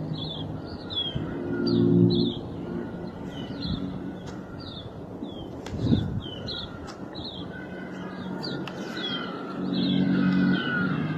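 Small birds chirping over and over, each call a quick downward-sliding note. Beneath them a low hum swells about two seconds in and again near the end.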